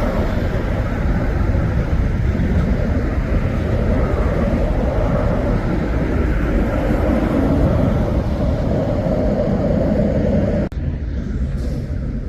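Jet engines of a departing airliner, a loud steady rumble as it climbs away after take-off. It cuts off abruptly near the end, leaving a quieter steady hum.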